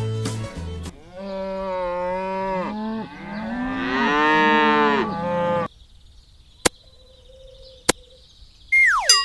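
A cow mooing twice in long drawn-out calls, the first about a second in and the second about three seconds in. Then two sharp clicks, and near the end a falling ding.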